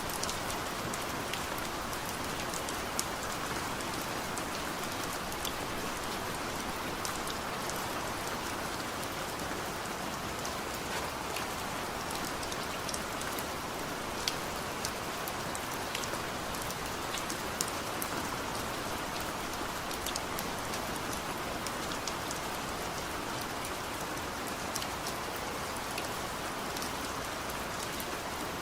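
Heavy rain falling steadily: a dense, even hiss with many scattered sharp ticks of single drops striking a surface.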